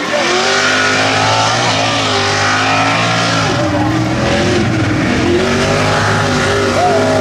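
Mega truck engine running hard, its revs rising and falling.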